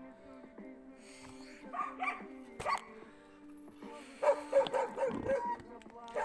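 A dog barking: a couple of barks about two seconds in, then a quick run of about five barks a little after four seconds in.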